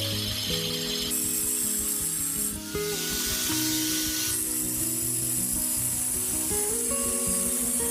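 Rubbing, rasping sound of wood being worked, with background music under it.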